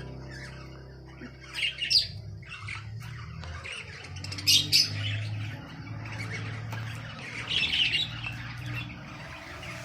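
Aviary birds squawking and calling, with loud calls about two seconds in, around four and a half seconds and near eight seconds, over a low steady hum.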